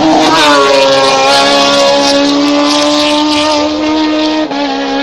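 Suzuki Hayabusa inline-four motorcycle engine in a lightweight SEAT 600 hillclimb prototype, loud at high revs as the car passes close by, its pitch dipping slightly as it goes past. It then holds a steady high-rpm wail, with a brief break in the note about four and a half seconds in.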